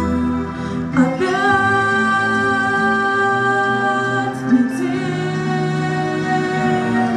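Pop ballad music with long held notes and a female voice singing.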